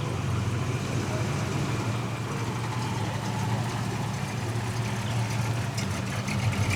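A car engine running steadily at low revs.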